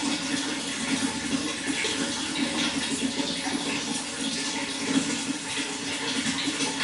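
Running water flowing steadily, an even splashing sound with no break.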